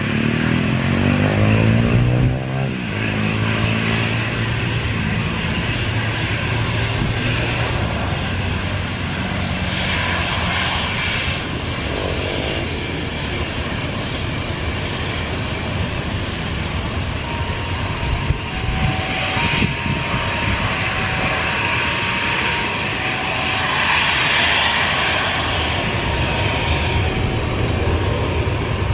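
Airliner engines running loud and steady as the aircraft moves past close by, with shifting pitched tones in the first few seconds.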